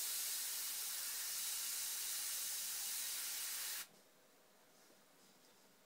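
Airbrush spraying paint: a steady hiss of compressed air through the nozzle that cuts off suddenly a little under four seconds in as the trigger is released.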